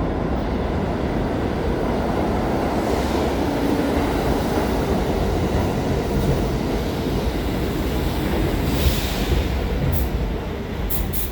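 New York City subway train running, a loud steady rumble of wheels on the track, with a short burst of hiss about nine seconds in.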